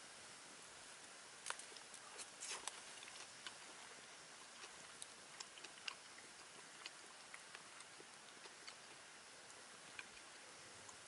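Wood campfire burning: a faint steady hiss with irregular sharp crackles and pops, a quick cluster of them about two seconds in, then single pops every second or so.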